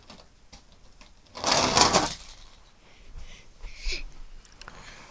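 Two die-cast toy monster trucks rolling and rattling down a plastic ramp in a short race, a burst of under a second about one and a half seconds in, followed by a few faint knocks.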